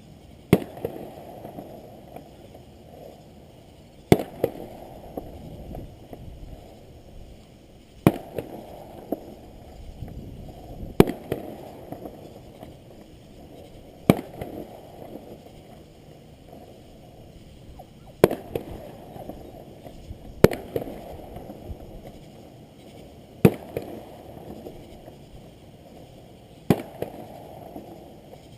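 Aerial fireworks shells bursting overhead: about nine sharp booms a few seconds apart, each followed by a low rumbling tail.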